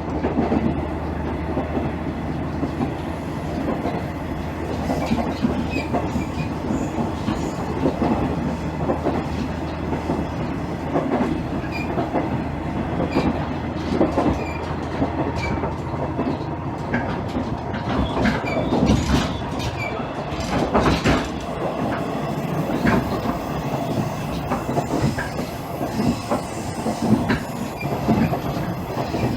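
A KiHa 110 series diesel railcar running on the line, heard from inside the car: the Cummins diesel engine and the running gear give a steady rumble, with many short clacks as the wheels pass over rail joints.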